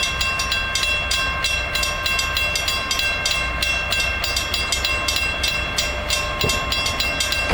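Railroad grade-crossing bell ringing with rapid, even strikes while the crossing is held active by track shunts. A low engine rumble runs underneath.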